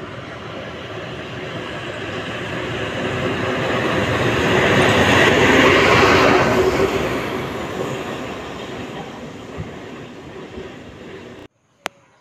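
Rumble of a passing vehicle, swelling to a peak about halfway through and then fading, cut off abruptly near the end; a single click follows.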